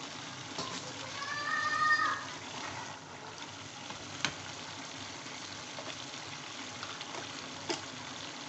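Chicken, potato and cauliflower curry sizzling in an aluminium pan as its remaining water cooks off, with two sharp clicks of a wooden spatula against the pan. A brief high-pitched tone sounds from about one to two seconds in.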